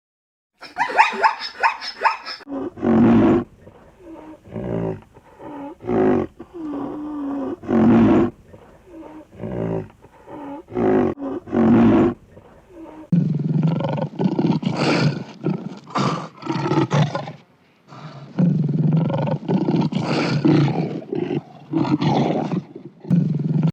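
A dog yelping briefly, then a big cat roaring and growling: short deep roars about once a second, followed by two long rough rumbling growls.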